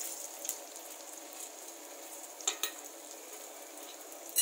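Ghee and oil sizzling steadily in a pan as urad dal, chana dal and whole spices fry, with a couple of sharp clicks about two and a half seconds in.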